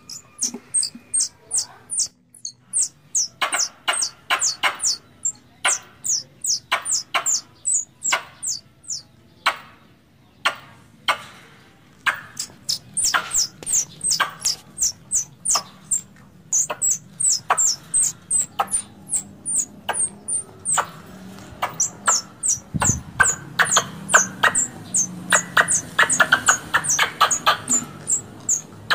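Squirrel calls, the kind used to call squirrels when hunting: a long run of sharp, high clicking chirps, each dropping quickly in pitch, about three a second with short pauses. The chirps come faster and denser near the end.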